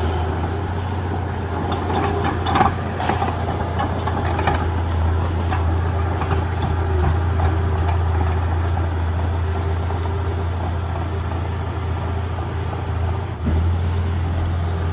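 Heavy diesel engine running steadily with a low drone, with a few sharp clanks or knocks in the first few seconds. The sound drops briefly and picks up again near the end.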